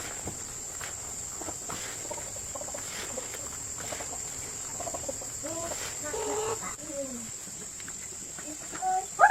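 Insects, crickets or cicadas, droning steadily at a high pitch, with a few short calls from an animal or a voice near the middle and a louder call at the very end.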